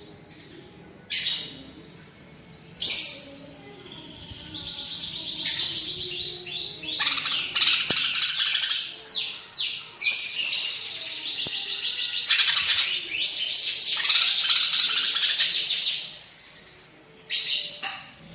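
Cucak ijo (green leafbird) singing: two short sharp calls, then a long stretch of fast, varied, high whistled phrases with rising and falling slurs, and one more short call near the end.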